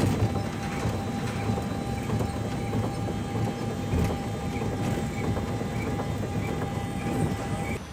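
Sky Bike rail bike rolling along its track: a steady rumble of wheels on the rails.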